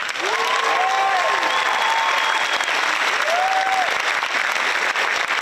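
Audience applauding, with a couple of drawn-out cheers rising and falling over the clapping, once near the start and again about three seconds in.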